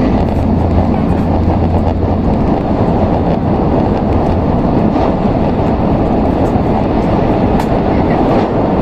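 Cabin noise of an N700S Shinkansen train running at speed: a steady, dense rumble and rush, with a few faint ticks.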